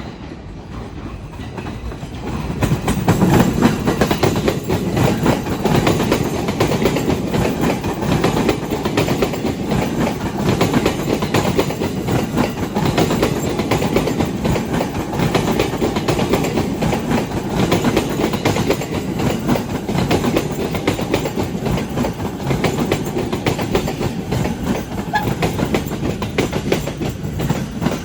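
JR Sobu Line electric train passing close by, heard from beside the track, its wheels clattering over the rail joints in a rapid clickety-clack. It builds up about two seconds in and then runs on steadily as the cars go by.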